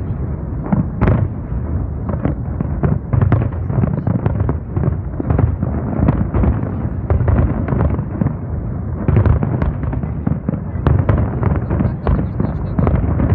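Fireworks display in full barrage: a rapid, continuous string of bangs and cracks from shells bursting, over a steady low rumble.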